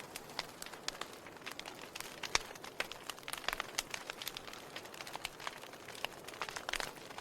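Wood fire burning, with irregular crackles and pops over a soft steady hiss; a louder pop a little over two seconds in and a burst of crackling near the end.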